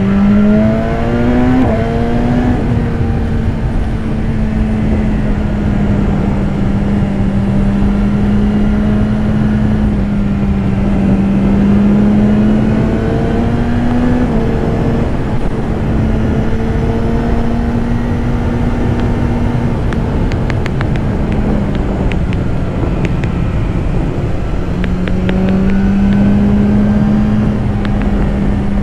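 2015 BMW S1000RR's inline-four engine running under way, rising in pitch at the very start as the bike accelerates, then holding a fairly steady note with slight rises and dips. A steady rush of wind noise sits under it.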